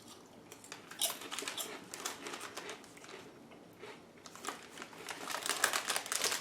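Crinkling and crackling of a plastic crisp packet being handled, in two busier stretches of quick, dry crackles.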